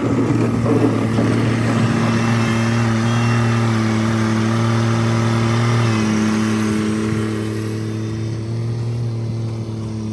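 Kubota tractor's diesel engine running under load at a steady speed, loudest just after it revs up at the start and easing slightly after about six seconds.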